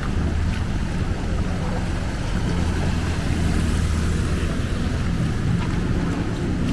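A vehicle engine running steadily under a constant rush of noise from fast-flowing floodwater.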